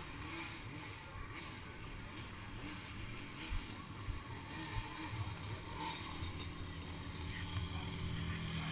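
Motorcycle engine idling, a low steady rumble, with wind noise on the microphone.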